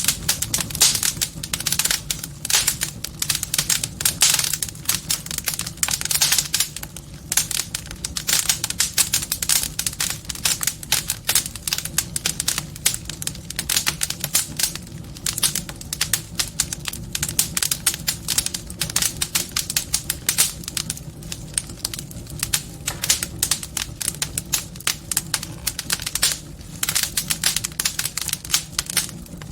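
Wood fire burning in a fireplace, crackling continuously with dense, rapid pops and snaps over a low, steady rumble of flame.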